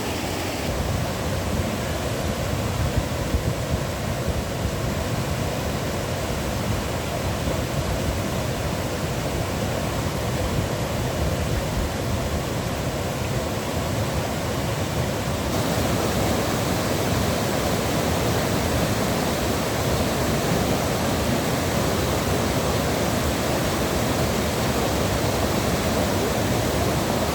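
Steady rush of falling or flowing water. About halfway through it changes to a slightly louder, hissier rush.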